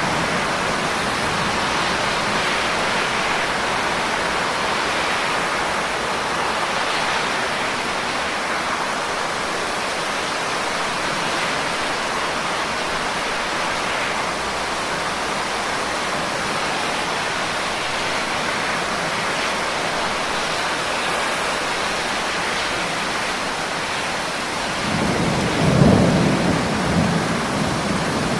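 Steady rain falling, a continuous even hiss. Near the end a low rumble of thunder swells and fades over a few seconds.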